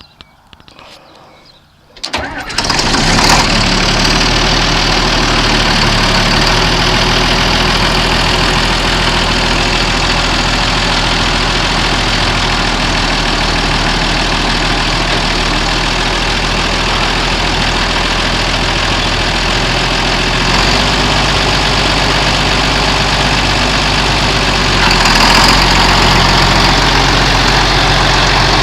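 John Deere 8430 4WD tractor's six-cylinder diesel engine starting about two seconds in and settling into a steady run. Its note shifts about twenty seconds in, and it gets a little louder near the end.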